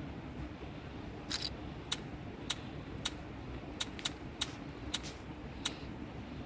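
About nine short, sharp clicks at irregular intervals, starting about a second in, over a steady low hum.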